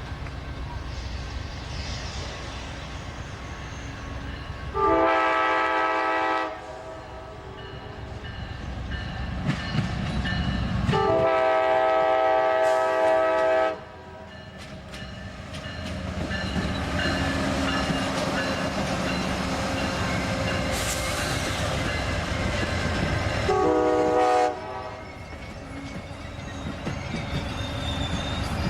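Train horn sounding three chord-like blasts, the middle one the longest at nearly three seconds, with a fourth starting at the very end, over the steady rumble and clatter of a train's wheels on the rails.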